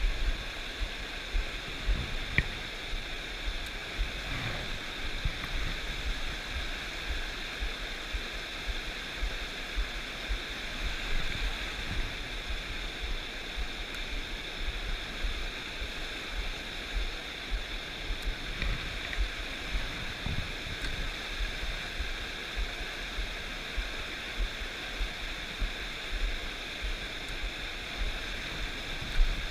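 Stream water rushing steadily, with frequent low bumps on the microphone.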